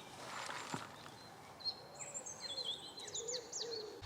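Wild birds chirping and singing outdoors, with a run of quick high notes in the second half over a faint background.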